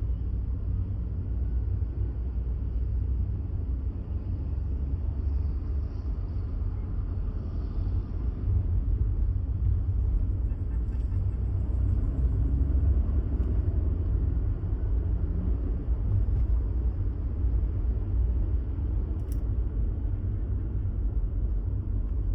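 Steady low rumble of a moving vehicle: road and engine noise, a little louder from about eight seconds in.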